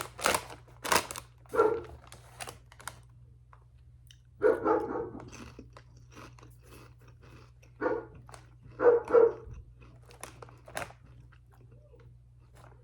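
A dog barking several times in short separate barks, two of them in quick succession, mixed with the crunch of potato chips being chewed.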